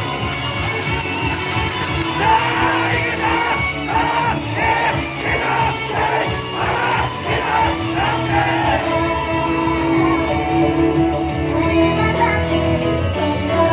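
Live J-pop idol song over a loud backing track: female vocals sing, with audience shouts mixed in.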